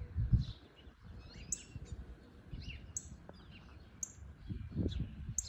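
Songbirds chirping, one repeating a short high call about every second and a half, with other scattered chirps between.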